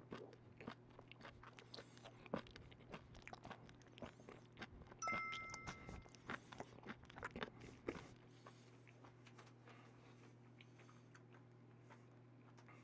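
Close-miked chewing of raw octopus (nakji): a rapid, dense run of wet mouth clicks and smacks for about eight seconds, then dying away to a faint hum. A brief two-tone ping sounds about five seconds in.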